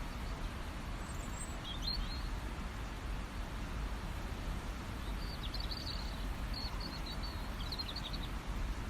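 Songbirds chirping in short high bursts, once briefly about two seconds in and then a run of chirps over the last few seconds, over a steady low background rumble.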